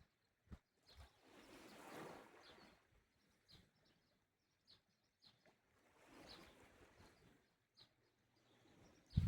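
Small sea waves washing softly on the shore in two gentle swells, with birds chirping now and then. A low thump comes at the very end.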